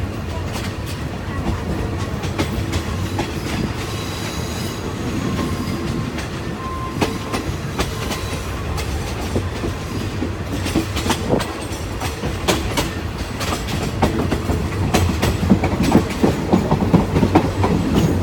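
Diesel-hauled passenger train rolling past on jointed track, its wheels clicking over the rail joints, with a brief wheel squeal a few seconds in; the clacking grows louder and busier near the end.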